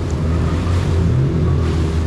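Jet ski engine running steadily under way, with rushing water.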